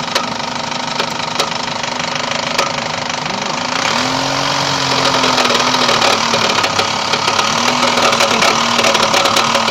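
Opel car engine running with a sharp, repeated knock. About three and a half seconds in it is revved, and the engine gets louder, with rising and falling pitch and denser knocking. The knock is the engine fault being diagnosed, described as a ring at idle and a knock at higher revs.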